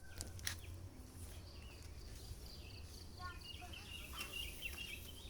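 Birds chirping in short repeated notes, thickest in the second half, over a steady low rumble, with faint voices in the background.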